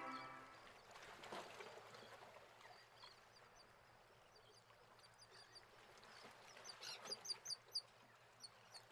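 Near silence as the music dies away, with faint high bird chirps scattered through it and a quick run of five or six of them about seven seconds in.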